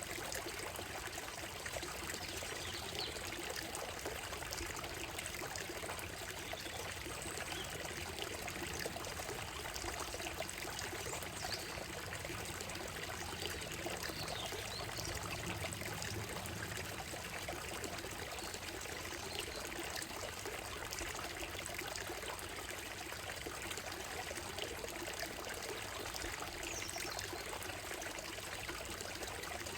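Shallow woodland stream running and trickling over stones and gravel in a steady, even babble, with a few faint bird chirps now and then above it.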